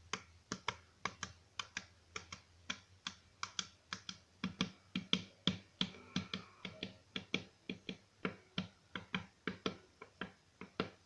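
Fingers working a container of cream, making a steady run of sharp clicks at about three or four a second.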